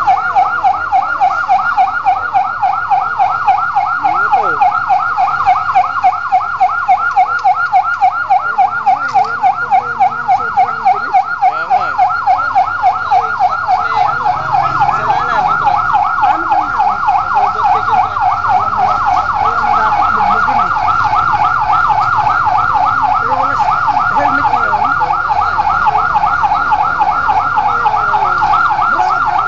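Electronic siren sounding continuously in a fast, even warble.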